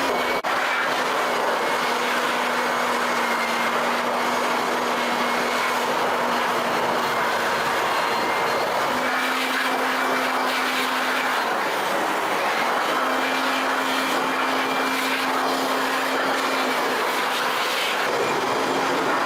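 Steady mechanical running noise with a low hum that drops out briefly a few times.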